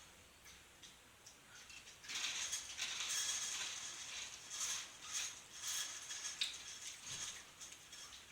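Dry crunchy cereal being chewed, a run of crisp crackling crunches starting about two seconds in.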